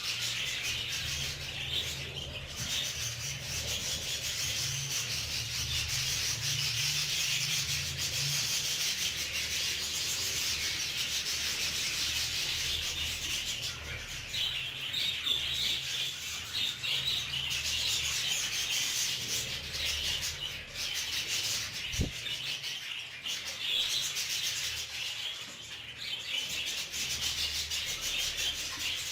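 Budgerigars chattering and warbling continuously in a dense flock chorus, over a low steady hum, with one sharp knock about two-thirds of the way through.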